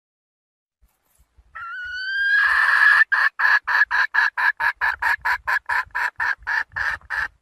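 Young junglefowl hen calling for a rooster: a drawn-out rising note about a second and a half in that turns harsh, then a long, rapid string of short clucks at about four a second.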